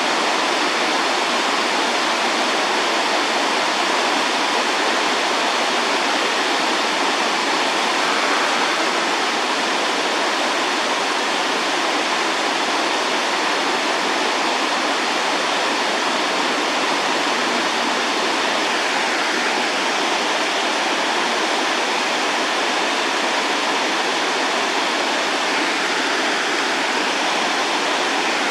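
Waterfall: a steady, unbroken rush of falling water, mostly in the middle and upper range with little deep rumble.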